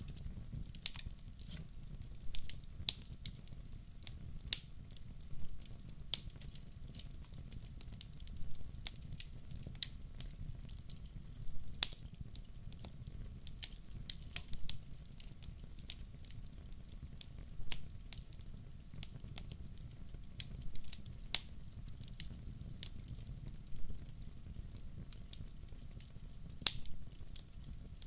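Firewood burning in a fireplace: irregular sharp crackles and pops, with a louder pop every second or few, over a low steady rumble of the fire.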